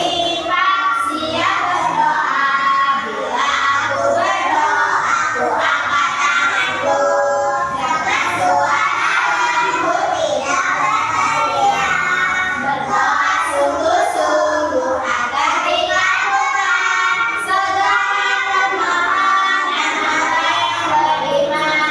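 A group of young children singing a song together, with a woman's voice singing along.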